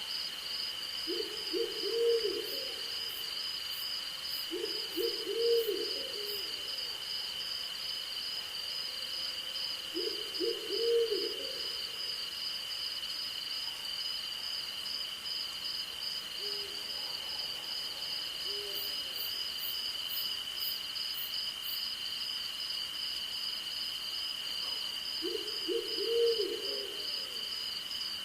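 An owl hooting in short phrases every few seconds, about five times, one of them faint, over a steady chorus of crickets and insects, one trilling in a fast pulse and one holding an even tone.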